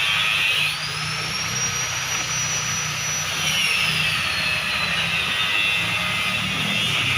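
Abrasive power cutting tool running on steel, a high whine over a gritty hiss. The whine rises about a second in, holds high, then sinks back down around four to five seconds in.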